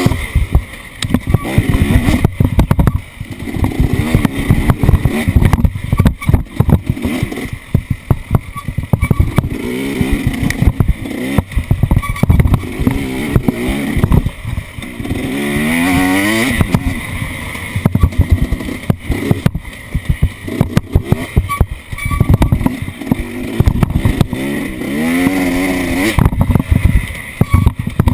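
Off-road vehicle engine revving up and down repeatedly while driving over rough ground, with frequent knocks and rattles.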